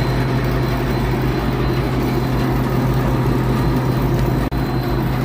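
Commercial three-phase air-conditioning condensing unit running with both compressors and its condenser fan on: a loud, steady low hum. The condenser fan motor is noisy and drawing more than its rated 2.8 amps, which the technician takes for a failing fan motor that is tripping the unit on high head pressure.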